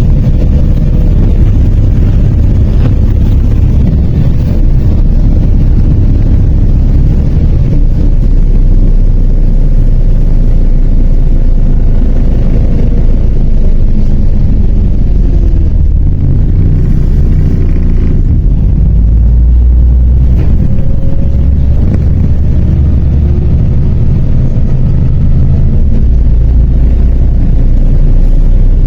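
MAZ 103 city bus heard from inside the cabin while driving: a loud, steady low rumble of engine and road noise, with a few faint wavering tones over it.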